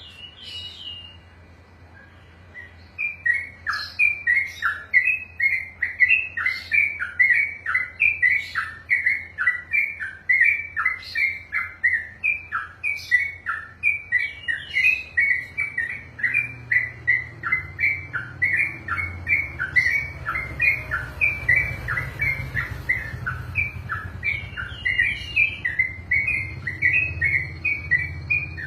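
A sooty-headed bulbul (trucukan) singing its long 'ropel': a continuous run of rapid chirping notes, several a second without a break. The run starts about three seconds in, after a brief single call, over a low background hum.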